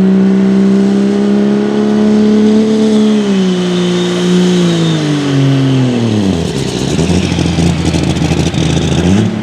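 Open four-wheel-drive pulling truck's engine at high revs under load, holding steady for about three seconds. The revs then fall over the next three seconds as the truck bogs down and the run ends short, and the engine settles to a lower, uneven run.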